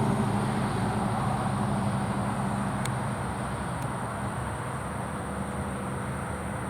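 A road vehicle passing, its engine hum fading steadily as it moves away, with a thin steady high-pitched tone above it.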